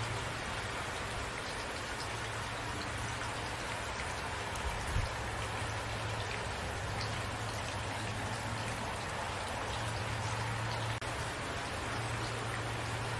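Steady rain falling: a continuous even hiss with scattered drops ticking on a surface, over a low steady hum. A single soft thump about five seconds in.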